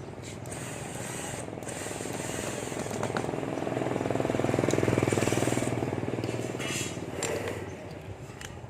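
An engine passing by, its rapid pulsing noise swelling to a peak about five seconds in and then fading away.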